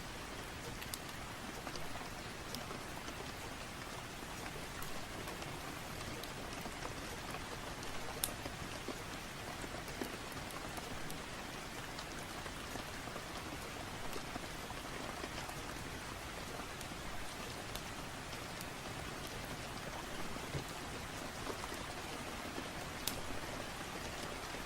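Steady rain, with a few sharp ticks scattered through it, the strongest about eight seconds in and again near the end.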